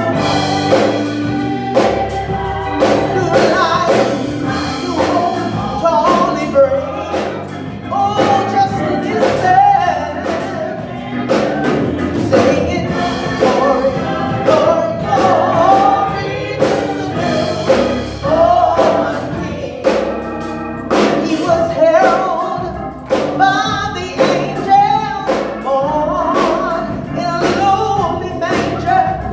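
A gospel choir singing with band accompaniment and a steady beat.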